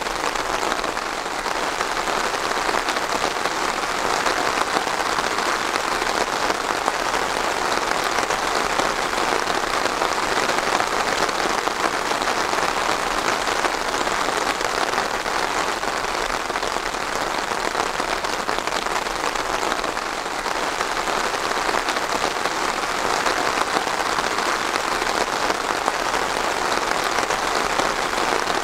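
Steady rain falling and pattering on surfaces, a dense even hiss.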